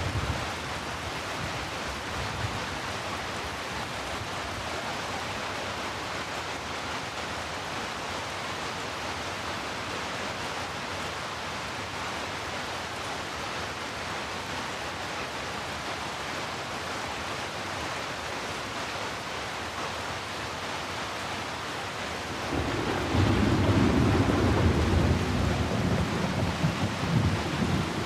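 Steady heavy rain falling, with a low rumble of thunder coming in near the end that makes the whole sound louder.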